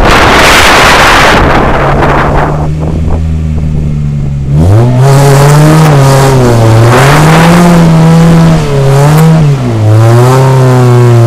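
Rally car engine heard from a bonnet-mounted camera. Wind rushes over the microphone at first. The engine then runs at steady revs, and from about four and a half seconds in it revs up and falls back several times under throttle, with two brief lifts, before running steadily near the end.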